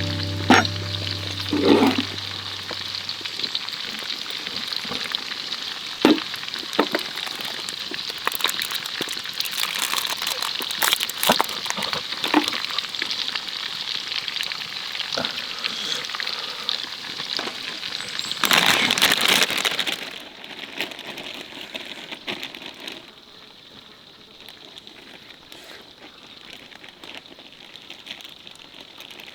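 Food sizzling and frying in a pan over a campfire, with scattered scrapes and knocks of a utensil against the pan. About two-thirds of the way through the sizzle briefly surges louder, then carries on noticeably quieter.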